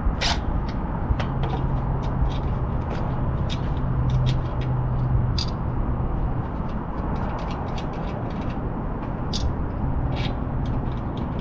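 Scattered sharp metallic clicks and taps from a hitch tightener being fitted and tightened on the bike rack's hitch receiver, over a steady low hum.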